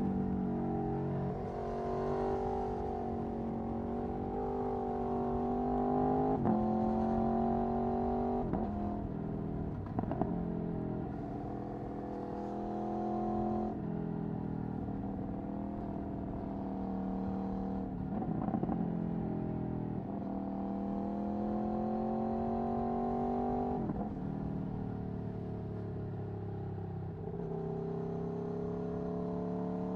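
Aprilia Tuono V4 1100's V4 engine through an Akrapovic Racing exhaust, running under way: the note climbs in stretches and changes abruptly several times, as through gear changes.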